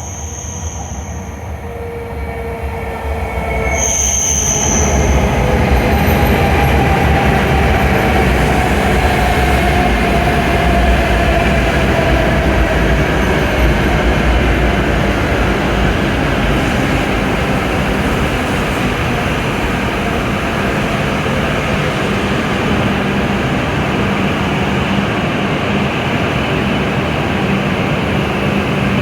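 E7 series shinkansen pulling into a station platform: a loud rush of train noise rises about four seconds in and holds, with a motor whine falling in pitch as the train slows. A short high beep sounds at the start and again as the noise rises.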